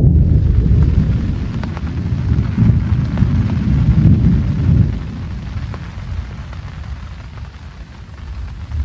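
A loud clap of thunder that breaks in suddenly and rumbles for about five seconds before dying away, over steady heavy rain with scattered drops ticking nearby.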